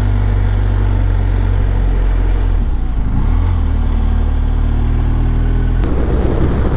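BMW R1250GS boxer-twin motorcycle engine running at low road speed, its pitch shifting about three seconds in. Near the end the steady engine note gives way to a rougher, noisier sound.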